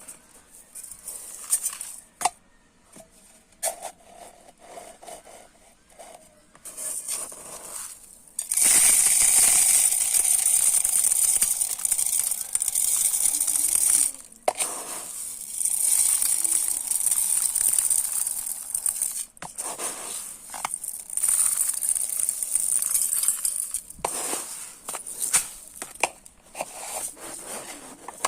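Dry uncooked rice grains scooped and poured: scattered clicks and rattles of grains, then a steady hissing pour lasting about six seconds, followed by two shorter pours and more scattered grain clicks.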